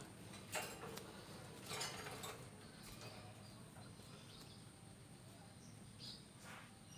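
Faint short chirps of white-breasted waterhens (ruak-ruak), with a few brief rustling bursts.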